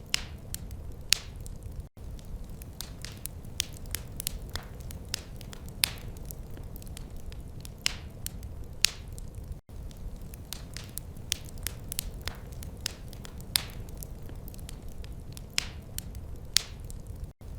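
Wood fire crackling: irregular sharp pops and snaps over a steady low rumble. The sound drops out for an instant three times, about every eight seconds.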